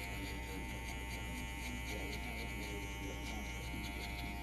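Electric hair clippers running with a steady motor buzz.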